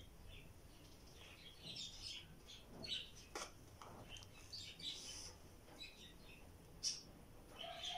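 Faint chirping of small birds, with a couple of sharp light clicks.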